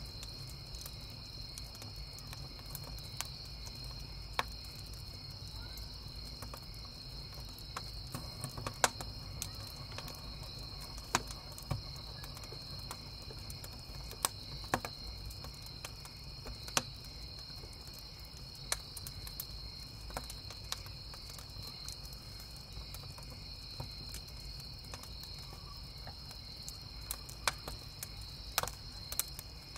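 Crickets chirping in a steady high chorus, with sharp crackles and pops from burning firewood at irregular intervals, a cluster of them near the end, over a low steady rumble.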